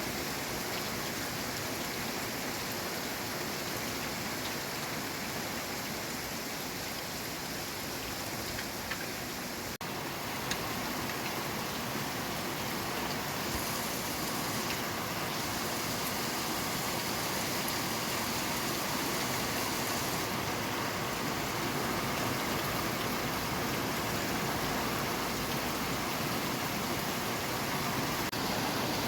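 Steady rain falling, an even hiss of water with a brief dropout about ten seconds in.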